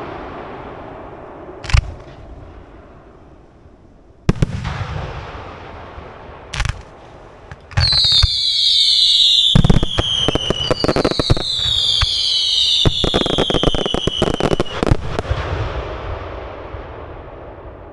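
Aerial fireworks: three separate shell bangs with echoing tails, then a dense run of crackling reports with two high whistles that fall in pitch, fading away near the end.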